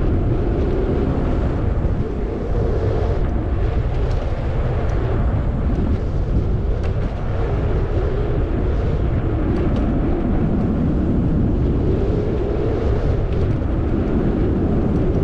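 Steady rumble of wind and road noise from a Zota Zephyr 20-inch fat-tire folding e-bike ridden uphill on pedal assist 5.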